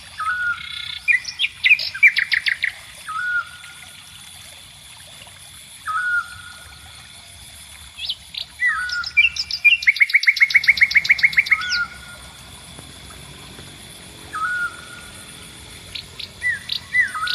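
A songbird singing in repeated bouts: short slurred whistles followed by fast, even trills of rapid notes, the longest and loudest trill about ten seconds in. A steady high thin tone runs underneath.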